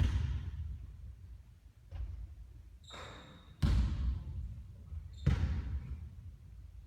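Basketball hitting a hard court, echoing in a large hall: loud thuds at the start, at about three and a half seconds and at about five seconds, and a fainter one near two seconds. A brief high squeak comes just before the second loud thud.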